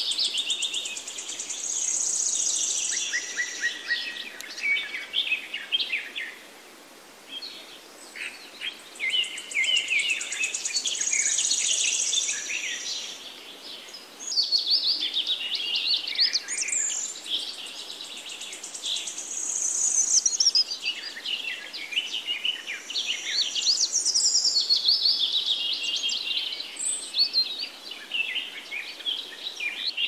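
Birds chirping and trilling in busy bursts a few seconds long, with brief lulls between them.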